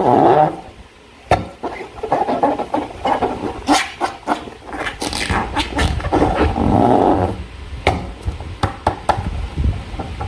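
Slime and rubber balloons being handled by hand: wet squelches and sticky clicks, with a few longer, louder squishing stretches.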